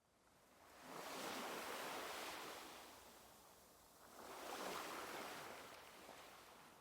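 Soft ocean waves washing onto a shore, two swells rising and falling a few seconds apart.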